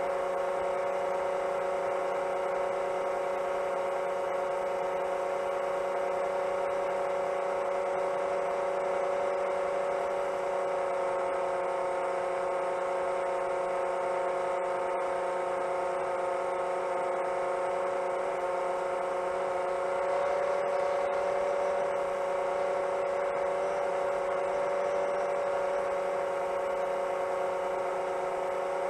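Motors and propellers of a Chimera 7 LR seven-inch long-range FPV quadcopter running steadily in cruise: a constant whirring hum with a strong even tone, heard through the drone's onboard microphone.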